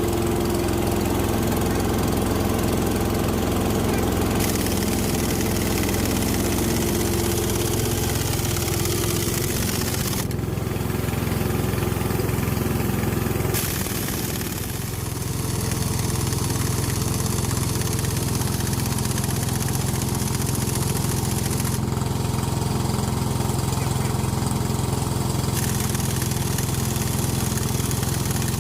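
An engine running steadily at idle, with a short dip in level about halfway through.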